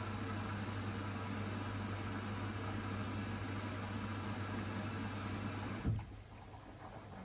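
Hoover DXOA610AHFN-80 washing machine filling with water: a steady rush of water with a hum from the inlet valve. About six seconds in there is a knock and the fill cuts off abruptly.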